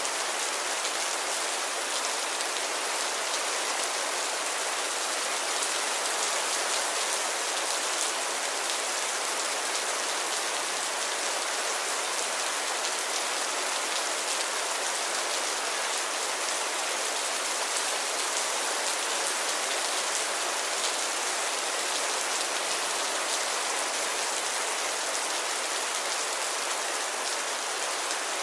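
Steady rain falling, a continuous even hiss with the patter of individual drops hitting a surface.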